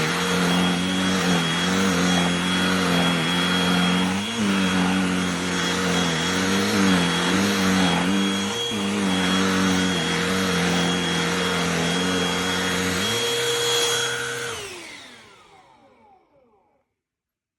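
Cordless handheld vacuum motor running steadily, its pitch dipping briefly a few times. Near the end it is switched off and winds down, the hum gliding lower and fading out.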